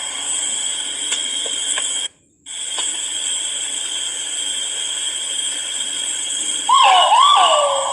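Great argus pheasant (kuwau) giving its loud two-note whistled call near the end, each note swooping up and then sliding down. It sounds over a steady high-pitched drone, which cuts out briefly about two seconds in.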